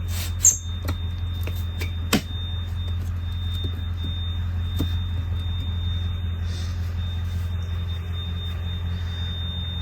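Steady low hum of the running ambulance heard inside its patient compartment, with a thin steady high whine over it. A few light knocks come in the first couple of seconds.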